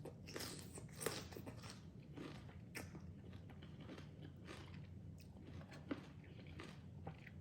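Close-up chewing of a mouthful of spicy salmon salad with raw vegetables: soft, irregular crunching and wet mouth clicks.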